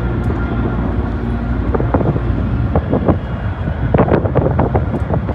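Distant fireworks going off across the city: scattered sharp bangs and pops, coming thicker in the last second or so, over a steady low rumble of wind on the microphone.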